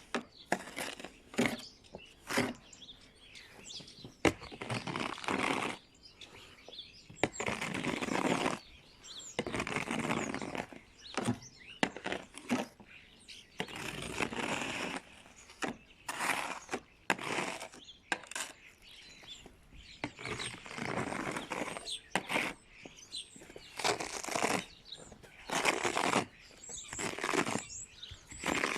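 Repeated scraping strokes clearing frozen snow and ice from a car, each scrape about a second long, with short sharp knocks and clicks between them. The snow has set into an icy crust, too hard to simply sweep off.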